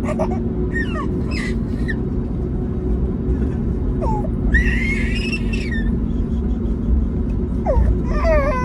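Steady low cabin rumble of an Airbus A321neo in its takeoff climb, with a couple of steady low engine tones in it. A baby cries or whimpers in short high, wavering bursts three times over it: about half a second in, midway, and near the end.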